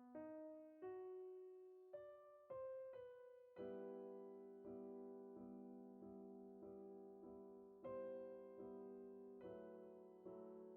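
Soft background piano music: slow single notes and held chords, each note struck and fading away.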